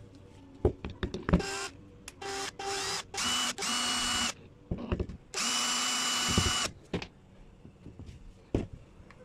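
Electric drill running in several short bursts with a steady whine, starting and stopping each time, with clicks and knocks between the bursts.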